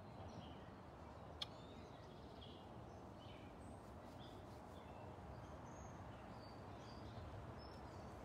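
Faint outdoor ambience with scattered bird chirps, and one sharp click about a second and a half in.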